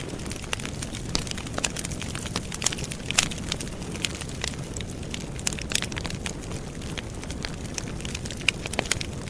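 Wood campfire burning: a steady low rush of flames with frequent sharp crackles and pops. One louder pop comes about three seconds in.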